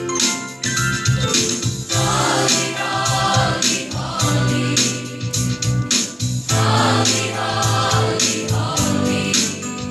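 Choir singing a gospel song over keyboard accompaniment with a steady beat.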